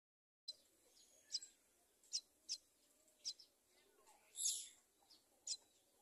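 Myna nestlings in the nest giving short, sharp, high chirps about once a second, with one longer, louder hissy call about four and a half seconds in.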